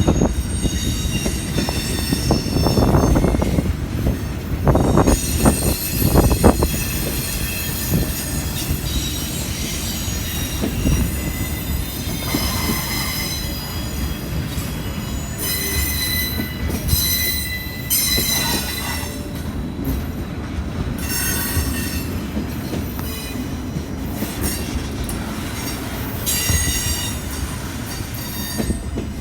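BNSF freight train cars rolling past, with a steady rumble and clatter and high wheel squeal that comes and goes. The clatter is loudest for a few seconds near the start.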